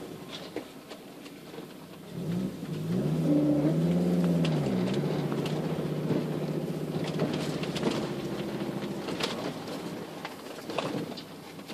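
Volvo 960's turbocharged 2.3-litre five-cylinder T5 engine through a 3-inch exhaust with only a middle muffler, idling and blipped once a couple of seconds in, its note rising and falling back to idle. A few sharp clicks sound over the idle later on.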